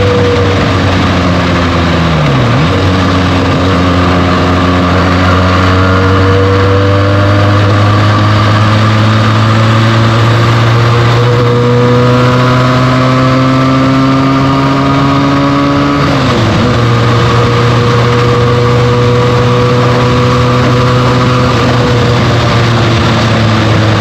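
Benelli TNT 300's 300 cc parallel-twin engine with its stock exhaust, pulling under way. The pitch drops sharply about two seconds in and again about sixteen seconds in as the rider shifts up. In between the revs climb slowly, and they then hold steady.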